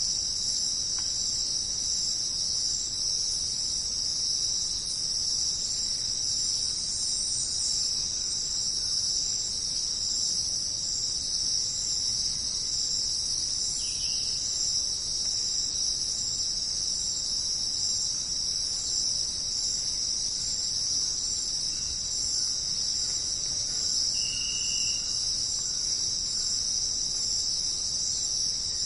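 A dense, steady high-pitched chorus of jungle insects such as crickets, unchanging throughout, with a couple of faint short chirps from another animal in the middle and later on.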